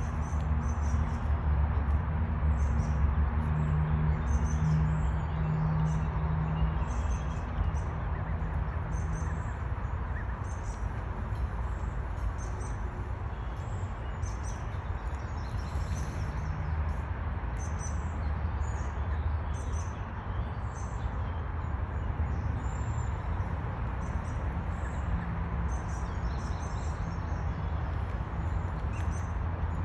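Many short, high bird chirps scattered throughout, over a steady low rumble.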